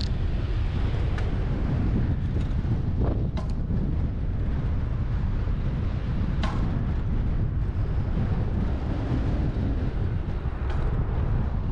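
Wind buffeting the microphone of a camera on a moving bicycle: a steady low rumble, with a few short clicks scattered through it.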